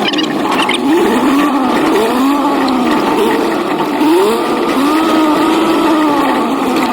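An old truck's engine running under load, its pitch rising and falling every second or so as the revs swing up and down.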